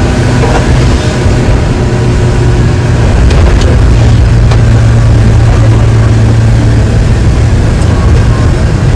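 A loud, steady engine running: a constant low hum with a rushing noise over it.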